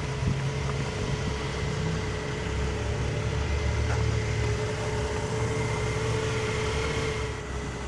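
2011 Nissan 370Z's 3.7-litre V6 idling steadily.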